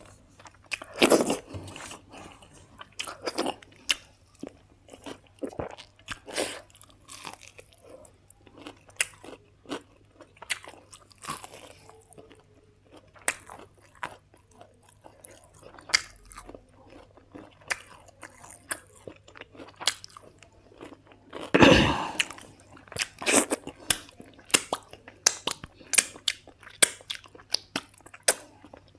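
A person eating close to the microphone, chewing and crunching mouthfuls in irregular bites, with one louder crunch about three-quarters of the way through.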